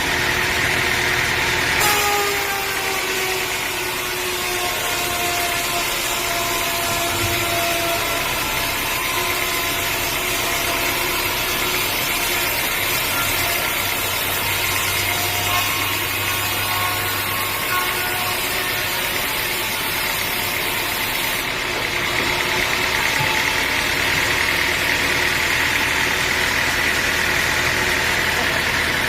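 Engine running steadily at a low, even speed, with a faint tone that slides slightly downward a few seconds in.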